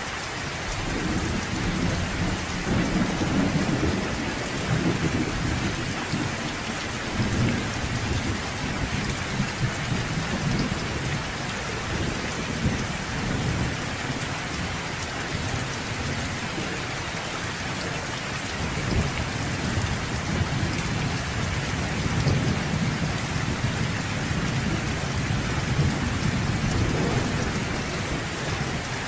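Steady rain falling, with low rolling thunder rumbling underneath that swells up twice, once in the first third and again in the last third.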